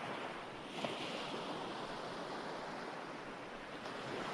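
Ocean waves washing onto a shore: a steady wash of surf.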